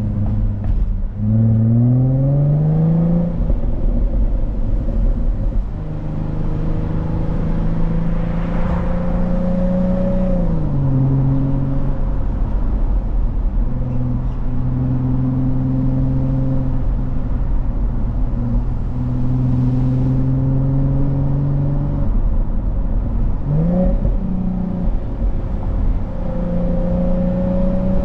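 Jaguar F-Type S's supercharged 3.0-litre V6 running while driving. The engine note falls near the start, climbs as it accelerates, then holds fairly steady at cruising revs with a few steps in pitch from gear changes, over a low road rumble.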